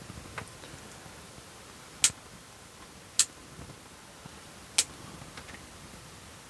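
Bonsai pruning shears snipping conifer branches: three sharp, separate snips about a second or more apart, with a fainter one near the start.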